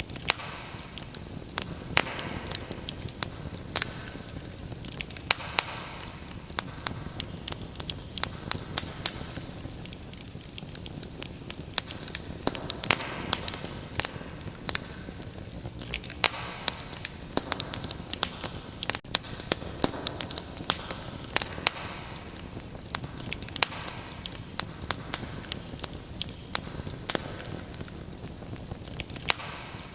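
Wood fire crackling in a fireplace: frequent irregular pops and snaps over a steady low hiss.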